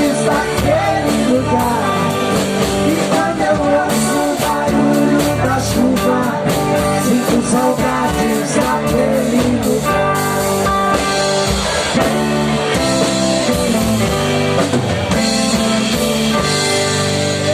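Live rock band playing: electric guitar with bending lead notes over bass and drum kit, with a sung vocal line.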